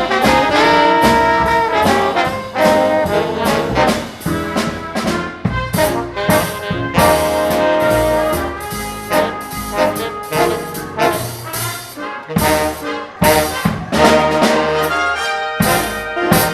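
Live big band playing swing dance music, with the trumpets and trombones leading. In the second half the band plays punchy chord hits separated by short, sudden breaks.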